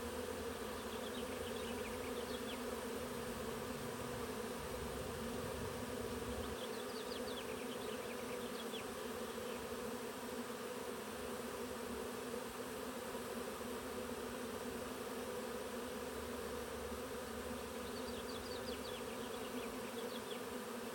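A honey bee swarm humming steadily as it moves into a Warré hive, a dense drone of many wingbeats. Short bursts of high chirping come three times: near the start, about a third of the way in, and near the end.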